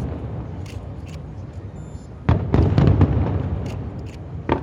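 Aerial fireworks: a loud shell burst a little over two seconds in, its low rumble fading over the next two seconds, with faint crackles before it and another pop near the end.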